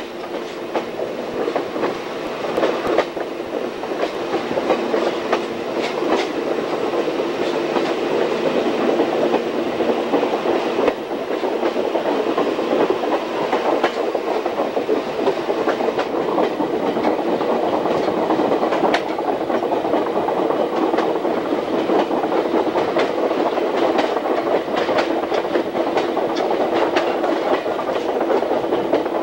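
Railroad car rolling along the track: a steady rumble of wheels on rail, with sharp clicks every so often as the wheels pass over rail joints, heard from aboard the moving train.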